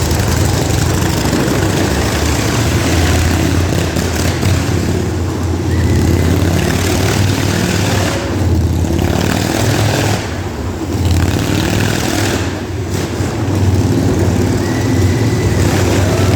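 Motorcycle engines running loudly and revving, with the level dipping briefly about ten and twelve seconds in.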